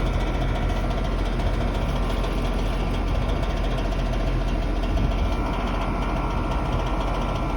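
Outdoor air-conditioner condenser unit running steadily, its fan motor making a rough grinding rattle along with the running hum. The owner puts the noise down to a loose shaft on the condenser fan motor.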